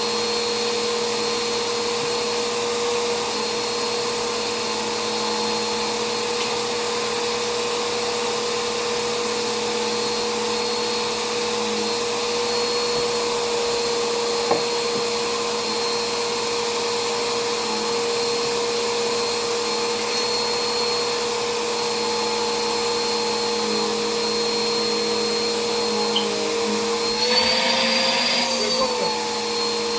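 Vacuum cleaner running steadily with a constant whining motor note and rushing air. Near the end its pitch rises and falls briefly while the rush of air swells.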